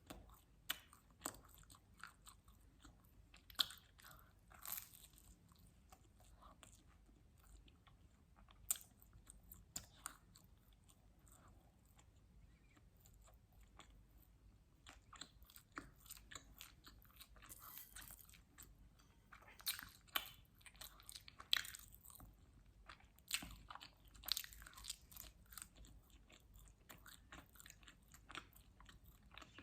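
Close-miked mouth sounds of someone eating pizza: chewing with irregular sharp crunches and wet smacks. The sounds thin out for a few seconds about a third of the way through, then grow busier.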